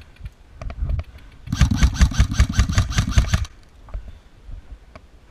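Airsoft electric rifle firing a rapid, evenly paced burst of about two seconds, its gearbox cycling with each shot.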